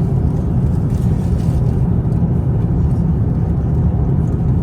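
Steady low rumble of cabin noise inside an Airbus A350-900 airliner in flight, engine and airflow noise heard from an economy seat.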